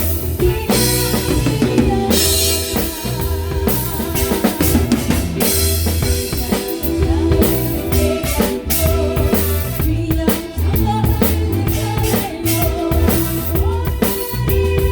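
A band playing a song at rehearsal: a drum kit with kick and snare keeping a steady beat under sustained guitar and keyboard parts.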